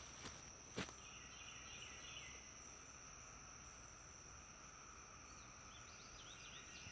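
Quiet evening insect chorus: a steady high buzzing drone with a lower steady hum beneath it, a few faint short chirps, and a single sharp click about a second in.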